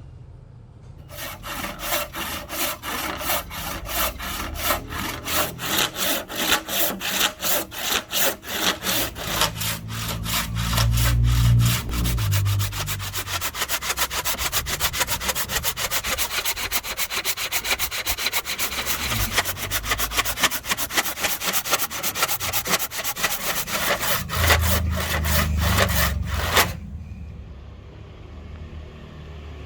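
Handsaw cutting through rosewood hardwood with rasping back-and-forth strokes, about two a second at first and quicker after the middle, stopping near the end.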